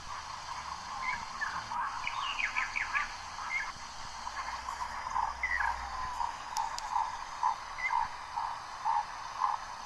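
Birds calling: a run of higher chirps early on, then a short call repeated about twice a second over a steady hiss.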